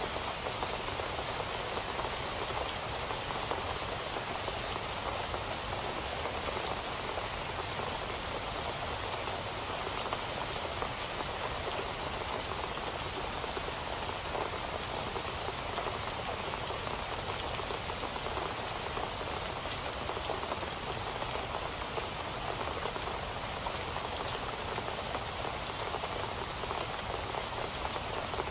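Steady rain falling on a surface, an even patter of countless drops with no change in strength.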